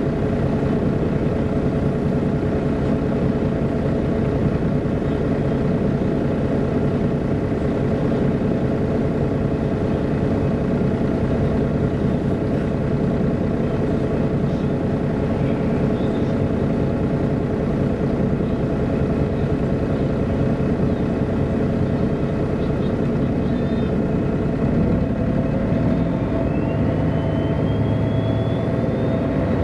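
MAN A23 articulated city bus running with a steady engine drone. From about 25 seconds in, a whine rises in pitch as the bus picks up speed.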